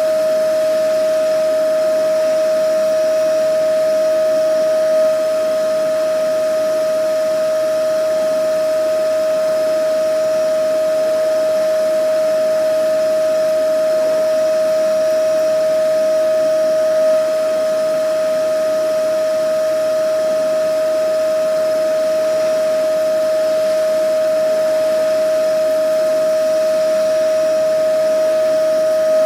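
Vacuum cleaner running steadily: an even motor whine over a constant rushing hiss of air.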